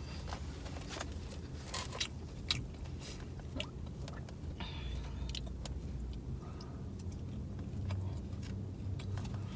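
Quiet eating sounds: chewing, with scattered small clicks and ticks of a utensil and takeout plate, over a steady low hum inside a parked car.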